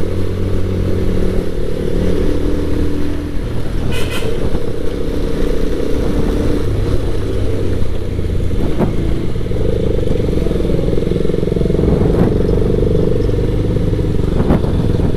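Motorcycle engine running steadily while being ridden, its pitch shifting a few times with throttle, with a few faint ticks over it.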